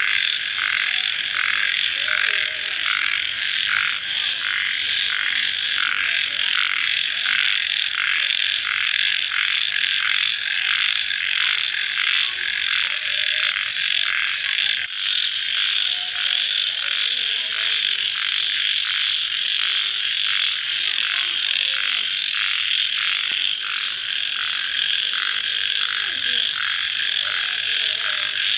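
Dense night chorus of calling crickets, pulsing about twice a second through the first half, then settling into a steadier, unbroken trill.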